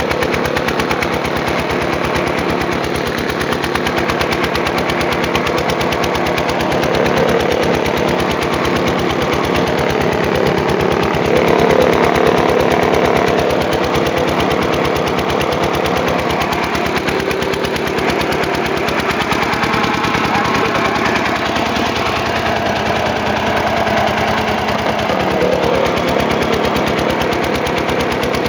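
Kirloskar generator's engine running steadily with a rapid, even knocking beat, during a load test.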